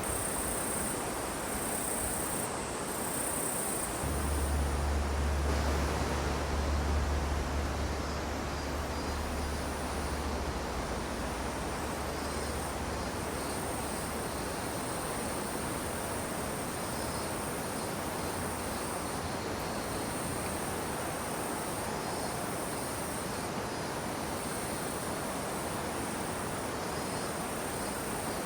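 Outdoor ambience of insects chirping in a high, steady trill that pauses now and then, over an even hiss. A low rumble sounds for several seconds near the start.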